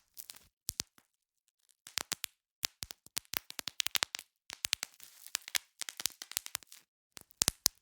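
Bubble wrap being popped by hand: sharp, irregular pops, some in quick runs, with faint crinkling of the plastic between them and short pauses, the longest about a second in.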